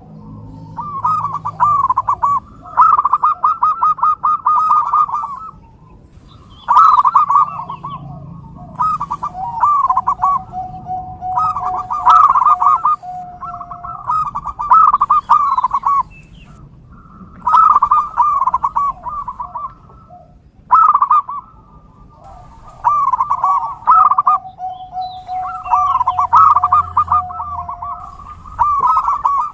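Zebra doves (perkutut) cooing: repeated rapid trilled phrases of a second or two each, with short pauses between them. Twice a long, steady lower note is held for several seconds beneath the cooing.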